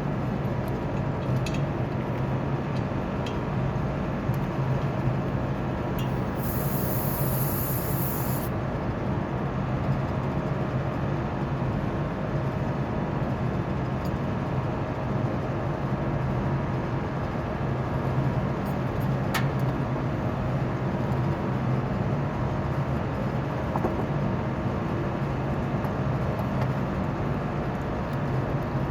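Rooftop HVAC units running: a steady mechanical drone with a strong low hum. A burst of high hiss comes in about six seconds in and lasts about two seconds.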